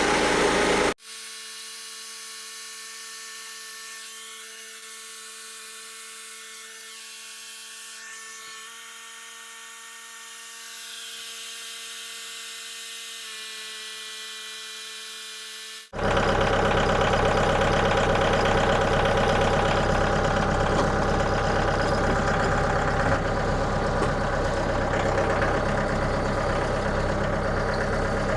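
Engine running steadily. About a second in it cuts abruptly to a much quieter steady hum, and the loud engine sound returns just as suddenly about fifteen seconds later.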